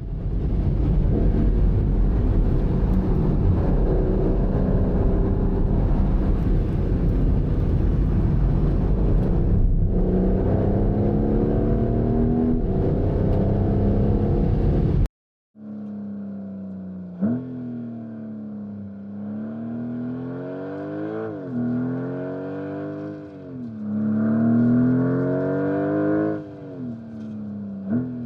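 Porsche 992.2 Turbo S twin-turbo flat-six accelerating hard under heavy wind and road noise, its pitch climbing slowly. After a sudden cut about halfway through, the engine is heard more cleanly, rising and dropping back about five times as it pulls through successive gear changes.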